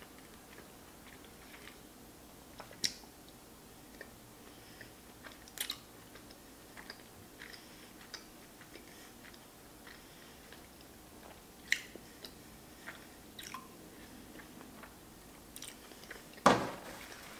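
Close-miked chewing and mouth noises of someone eating saucy strips of raw yellowtail (hamachi) sashimi, with scattered soft wet clicks and smacks. A sharper, louder click comes about a second before the end.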